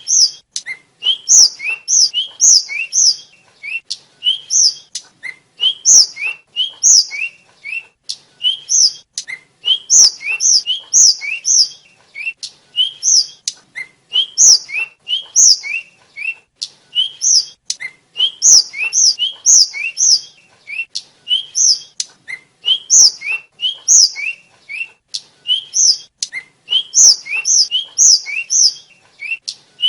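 A tledekan, a small Javan flycatcher (sikatan), singing a fast, unbroken string of short, high, thin whistled notes, each high note followed by a lower one, with little clicks between them.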